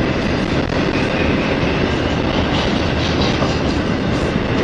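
Double-stack intermodal freight cars rolling past at track speed: a loud, steady rumble and clatter of steel wheels on the rail.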